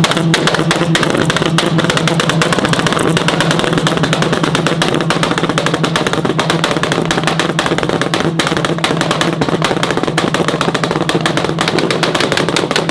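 Modified car engines held at high revs on a two-step limiter, with rapid, continuous popping and crackling from the exhaust over a steady drone.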